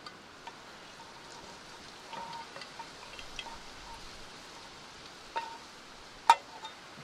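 Small taps and clicks over a steady faint hiss, then two sharper clinks near the end, the second the loudest, each with a brief ring.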